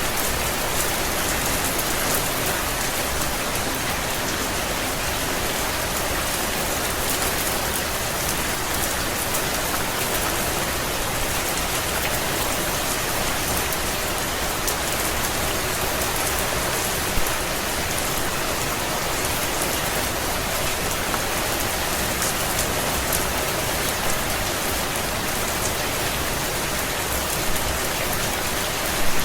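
Steady rain falling, an even hiss with a few sharper taps of single drops standing out now and then.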